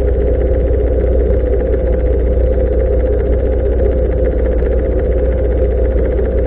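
Motorcycle engine running steadily at an even pitch, with a strong low rumble and no revving.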